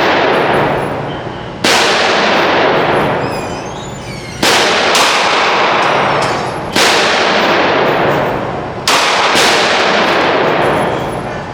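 Six gunshots fired at an uneven pace, two of them in quick pairs, each followed by a long, fading echo.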